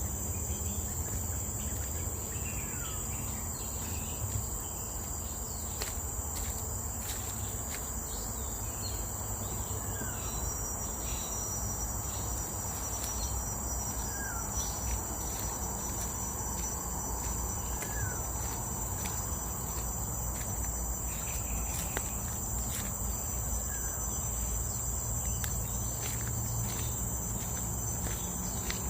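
Steady, high-pitched drone of forest insects, with a bird giving a short falling call every few seconds.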